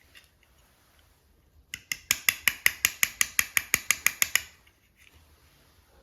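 A rapid, even run of sharp clicks, about seven a second, starting a little under two seconds in and stopping after about two and a half seconds.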